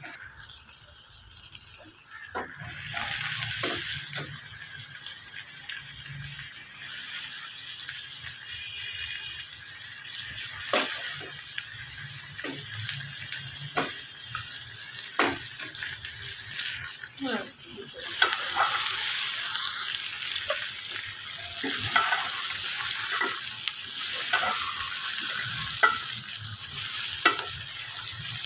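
Chopped okra with onion and tomato sizzling as it fries in a metal pot, while a metal spoon stirs it with repeated scrapes and clinks against the pot. The sizzle gets louder about two-thirds of the way in.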